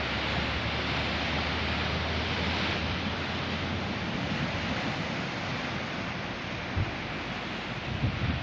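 Rough sea surf: a steady rush of breaking waves, with a few brief low thumps near the end.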